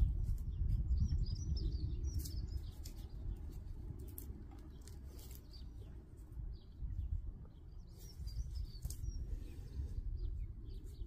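Small birds chirping in two short spells, over a steady low rumble, with scattered light clicks and rustles of hands working soil.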